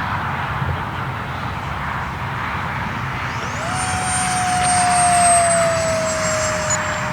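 Radio-controlled model airplane in flight over a steady rush of noise; about three and a half seconds in, its motor whine comes up and grows loudest near the middle, then eases slowly lower in pitch.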